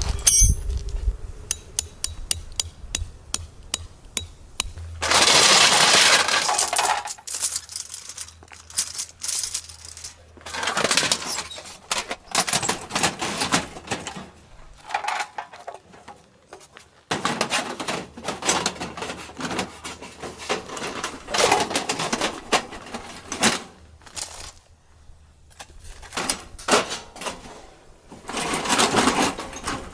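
Objects being handled: a quick run of light clicks and clinks in the first few seconds, then scattered knocks and several bursts of rustling lasting a second or two each.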